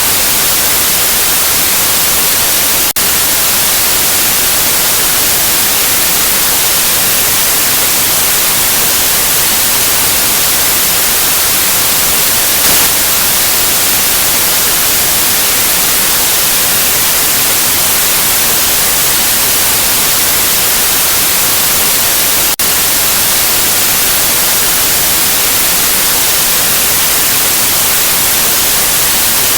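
Steady, loud white noise: an even, unchanging hiss. It is broken twice by a split-second dip, about twenty seconds apart.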